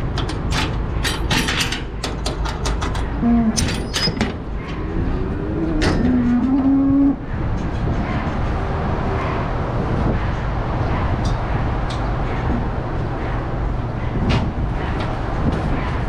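Dairy cows mooing: a short low moo about three seconds in and a longer one around six to seven seconds, over a run of sharp metallic clanks and rattles in the first few seconds and a steady low drone.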